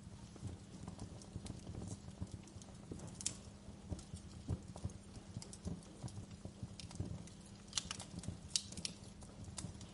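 Wood fire crackling: irregular pops and snaps over a low steady rumble, with a cluster of sharper snaps about eight seconds in.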